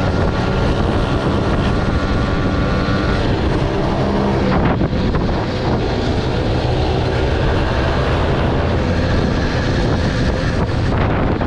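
Small motorbike engine running steadily while riding, mixed with road and wind noise.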